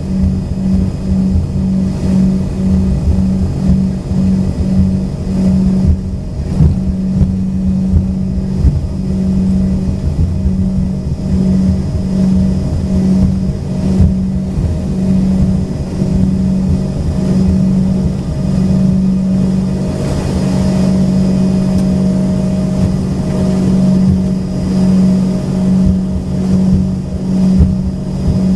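Cabin sound of an Embraer ERJ-135's rear-mounted Rolls-Royce AE 3007 turbofans running at low power on the ground: a steady hum that pulses in a slow beat, a thin high whine, and an uneven low rumble underneath.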